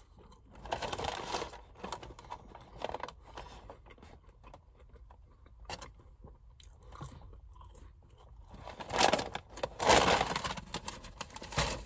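A person chewing and eating French fries, with irregular bursts of mouth noise and a louder noisy burst about nine seconds in.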